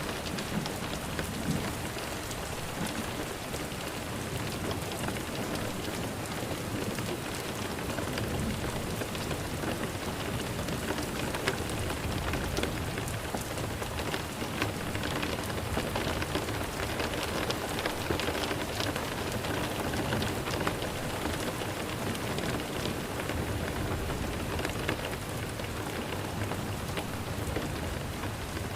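Steady rain falling, a continuous even patter of drops.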